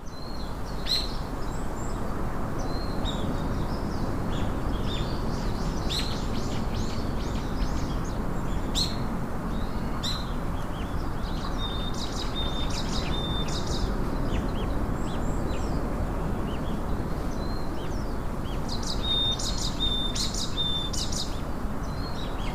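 Many birds chirping and calling, with two runs of short, evenly repeated whistle notes partway through and near the end, over a steady low background rumble.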